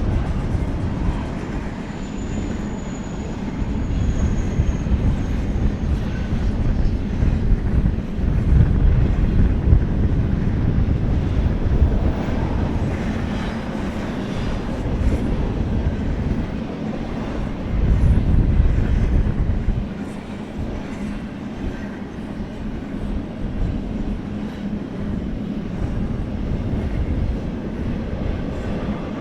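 BNSF freight train cars rolling past: a steady rumble with wheels clattering over the rail joints. It swells louder about a third of the way in and again about two-thirds of the way in.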